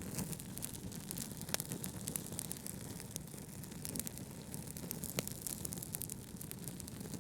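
Wood fire crackling: frequent small pops and snaps over a steady low rumble of brown noise, with two sharper pops about a second and a half in and near five seconds in.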